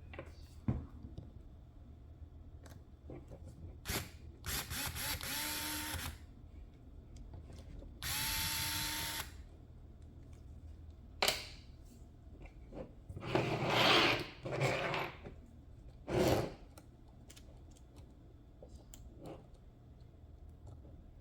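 A small electric motor whirring in two short bursts, each starting with a brief rise in pitch. Clicks and knocks of parts being handled come in between.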